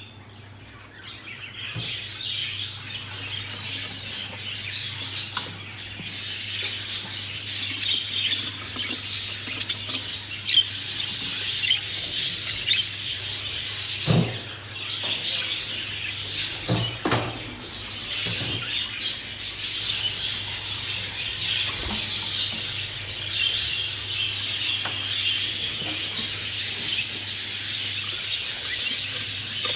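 Budgerigars chattering and chirping together, a dense, continuous twittering that swells about a second in, over a low steady hum, with a few short knocks around the middle.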